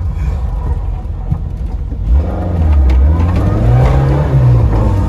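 Citroën AX GT rally car's engine revving up under hard acceleration: a rough low running note for about two seconds, then the pitch climbs, dips briefly near the end and rises again.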